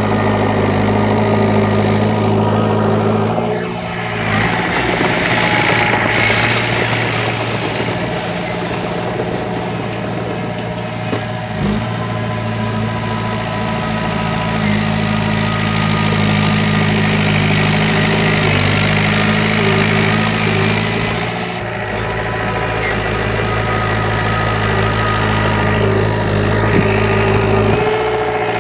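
Diesel engine of heavy earthmoving equipment running steadily, with the engine note shifting briefly about four seconds in, again about two-thirds of the way through, and near the end.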